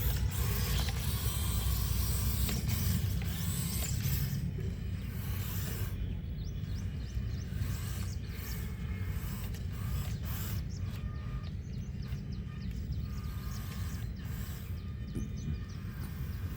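Mechanical clicking and ratcheting over a steady low rumble.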